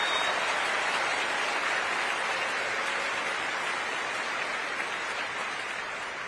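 Large crowd applauding, the clapping slowly dying down.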